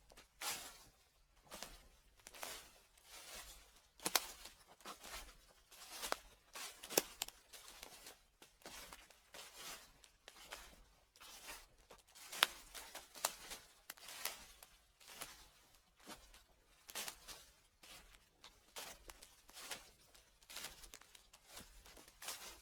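Footsteps crunching and crackling through dry fallen leaves at a slow, even walking pace, about one step a second.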